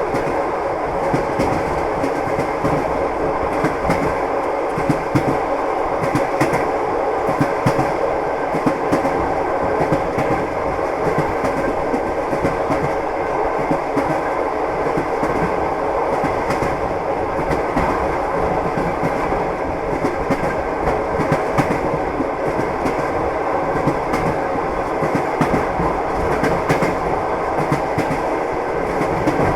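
Train wheels clattering steadily over the rails, with a continuous running rumble and a dense scatter of short clicks.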